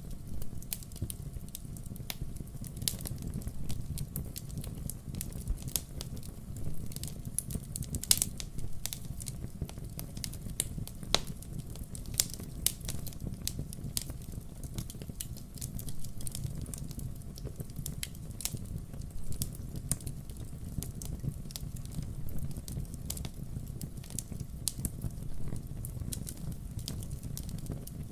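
Burning firewood crackling: frequent, irregular sharp pops and snaps over a low, steady rumble of the fire.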